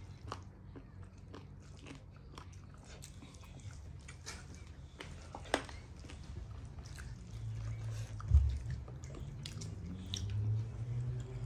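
Close-up eating sounds of a person chewing chicken and rice by hand: repeated wet smacks, small crunches and mouth clicks. A dull thump stands out about eight seconds in.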